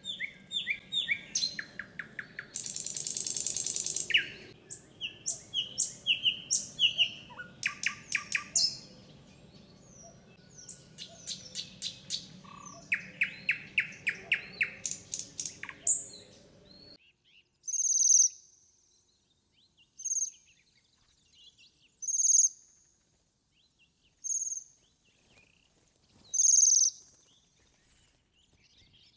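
A dense mix of forest songbirds singing over one another. Just over halfway through it gives way to a Bohemian waxwing's short, high calls, repeated about every two seconds.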